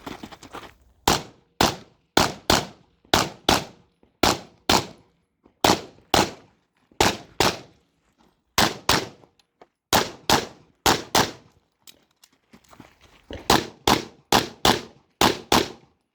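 Smith & Wesson M&P 2.0 pistol fired rapidly in a USPSA stage: about two dozen sharp shots, mostly in quick pairs about half a second apart. The shooting pauses briefly about eight seconds in and again near twelve seconds, then carries on in fast strings.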